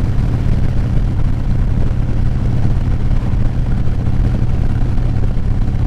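Motorcycle engine running steadily at road speed, mixed with wind rush, picked up by a microphone inside a full-face helmet.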